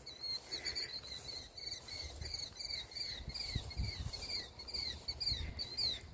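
A small bird chirping over and over, short down-slurred notes about two or three a second, with low rumbling on the microphone underneath.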